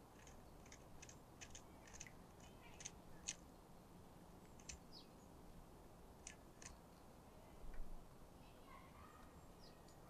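Quiet forest ambience with faint, sharp high-pitched bird calls and ticks, a quick irregular run in the first few seconds and a few more scattered later, including one short falling note. A soft low thump about three-quarters of the way through.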